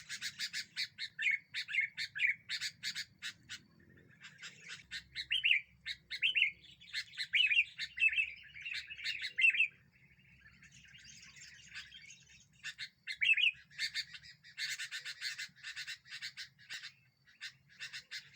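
Wild birds chirping and chattering agitatedly: rapid runs of sharp chips with short whistled phrases mixed in, easing off briefly around the middle before picking up again.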